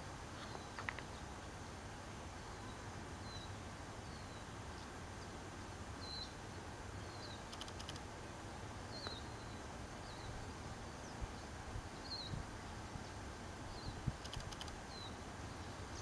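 A small bird repeating a short, thin, high chirp with a downward slur, about once every second or so, over a steady background hiss.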